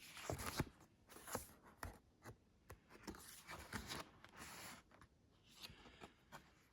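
Faint rustling and a few light clicks as a motorcycle jacket and its parts are handled.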